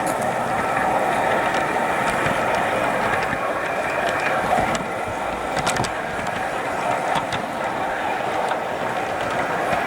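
G-scale model train running around a garden layout: a steady whir of its electric motor and gears, with a few sharp clicks of wheels over the track.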